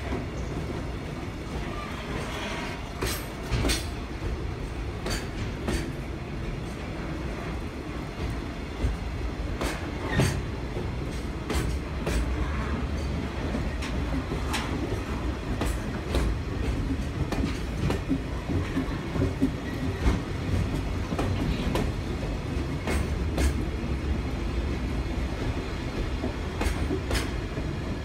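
Koki container wagons of a departing freight train rolling with a steady low rumble. Sharp metallic clunks and knocks come at irregular intervals, the shocks of couplers and draft gear taking up slack as the train pulls away, mixed with wheels clicking over rail joints.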